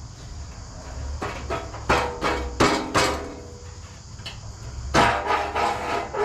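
Hammer blows on sheet metal, a string of irregular strikes with a metallic ring, while a battery tray is being folded and shaped.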